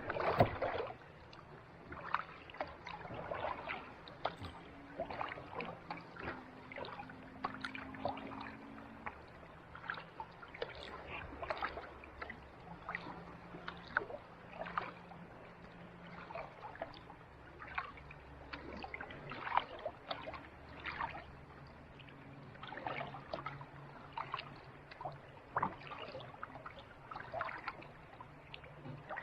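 Kayak paddle dipping into calm sea water, with irregular small splashes and drips from the blade, under a faint low hum.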